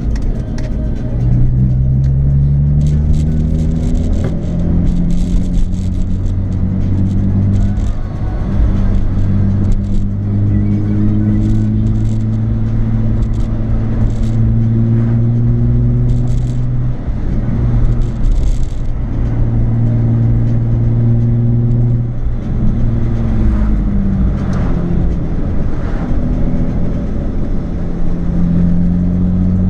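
Nissan 350Z's 3.5-litre V6 through an aftermarket Japspeed exhaust while driving, its deep note rising as it accelerates, holding steady at cruise, and dropping back at gear changes and lift-off several times.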